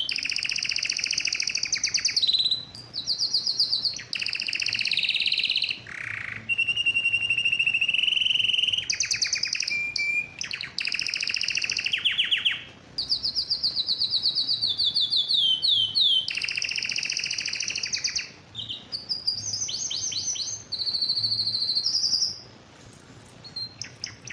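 Male domestic canary singing a long song of fast rolling trills, broken by a few held whistled notes and short pauses; the vigorous song of a male in breeding condition, used to bring a hen into breeding readiness.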